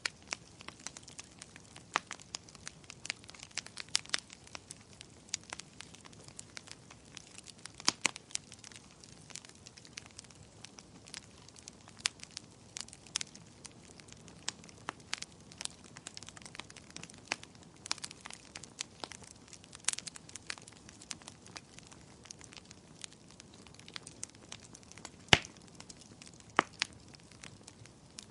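Wood fire crackling and popping in a fireplace: irregular sharp snaps over a soft steady hiss, with one louder pop near the end.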